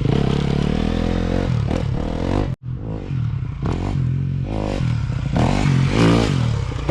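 Honda CRF250R's single-cylinder four-stroke engine being ridden hard on a motocross track, the revs rising and falling repeatedly as the throttle is worked through the jumps and corners.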